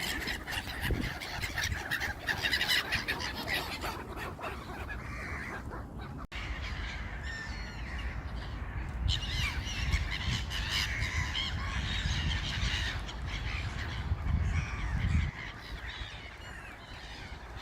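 A flock of gulls calling over one another, squabbling over food, with a low rumble underneath. The calls break off for an instant about six seconds in.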